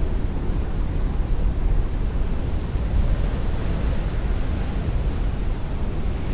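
Heavy rain beating on a window pane with strong wind rushing, a steady dense wash of noise with a deep rumble underneath. The hiss swells a little around the middle.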